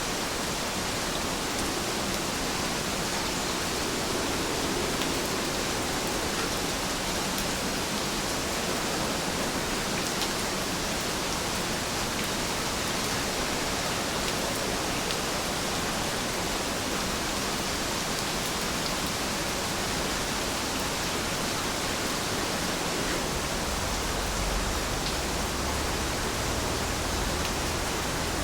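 Steady rain falling, an even hiss with scattered faint drop ticks. A low rumble comes in near the end.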